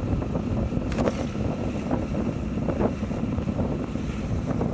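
Wind rushing over the microphone of a moving motorcycle, with the engine and road noise underneath as a steady low rumble. There is a sharp click about a second in.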